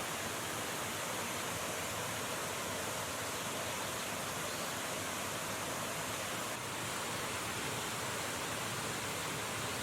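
River water rushing, a steady, unbroken rush of running water.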